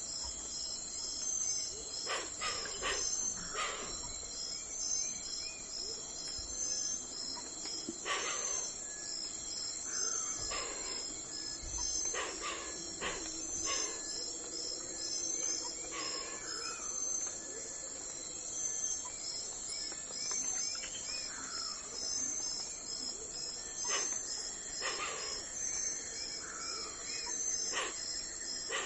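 Early-morning outdoor ambience: insects chirping in a steady, evenly pulsing high trill, with birds giving short, quick sweeping calls every second or two.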